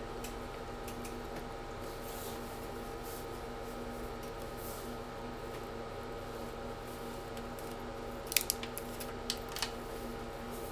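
Steady hum of a Hankyu 6300-series train car's onboard equipment, heard from inside the car, with no rise or fall in pitch. Several sharp clicks come in a short cluster about eight to nine and a half seconds in.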